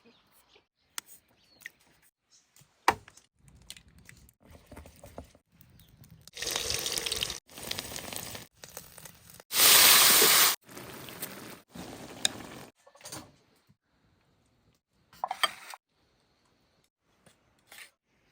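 Water running or pouring in several short stretches, the loudest about ten seconds in, with scattered clicks and knocks.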